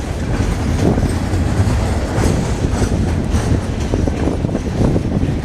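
Freight train rolling past close by: a steady heavy rumble of the cars, with the wheels clattering over the rail joints.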